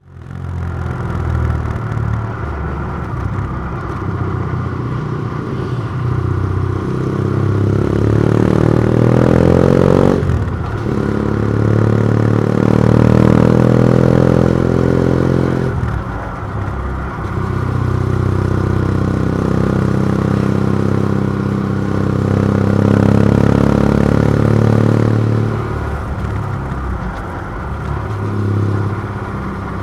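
BMW F700GS parallel-twin engine through an open MIVV titanium exhaust with the dB killer removed, pulling hard through the revs: the pitch climbs, drops sharply at a gear change about ten seconds in, climbs again, falls back around sixteen seconds, rises once more and eases off near the end.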